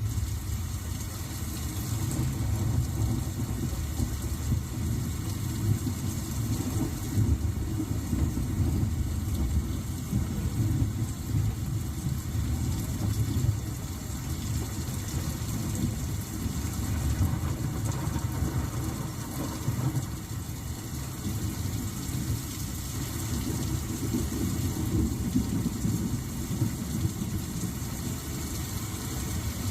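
Rain falling steadily, a fine hiss over a loud, uneven low rumble that runs throughout.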